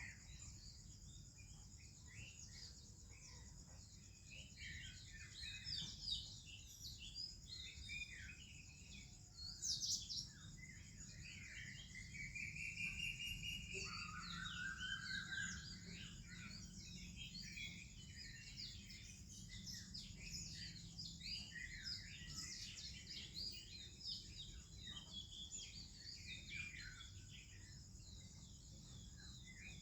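Morning chorus of songbirds, including an Oriental magpie-robin, with many short chirps and whistles overlapping and a couple of longer warbled phrases about halfway through, over a steady high-pitched drone.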